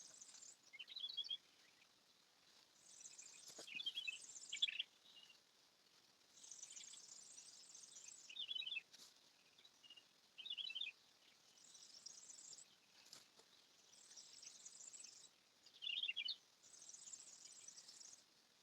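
Faint outdoor ambience: short bird chirps every few seconds, with a high insect-like trill coming in bursts of about a second.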